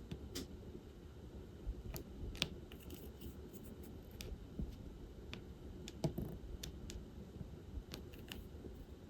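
Scattered light clicks and taps of diamond painting: a drill pen picking small resin drills from a bead tray and pressing them onto the canvas, at irregular intervals.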